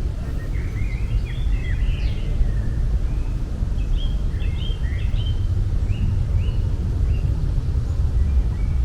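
Small birds chirping in quick clusters of short notes over a steady low rumble.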